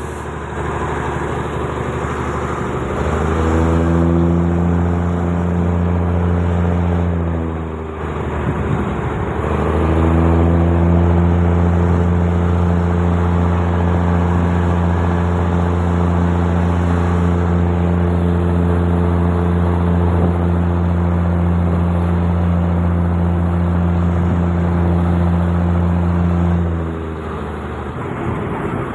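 Diesel train engine running: its low drone climbs in pitch a few seconds in, eases off briefly, climbs again and holds steady for a long stretch, then winds down near the end.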